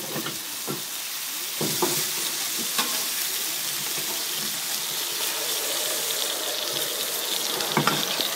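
Chicken, mushrooms and red onion sizzling steadily on a hot griddle pan over a grill, with a spatula now and then knocking and scraping the pan as the food is stirred, a few times including near the end.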